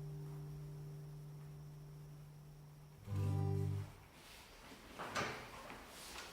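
Acoustic guitar's final chord ringing out and fading, then a brief low note about three seconds in, damped after under a second. A few soft knocks and handling noises follow near the end.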